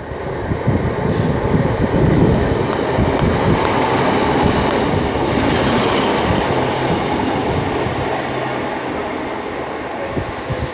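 Class 156 Sprinter diesel multiple unit running into the platform, its underfloor diesel engines and wheels on the rails loudest about two seconds in, then slowly easing as it slows.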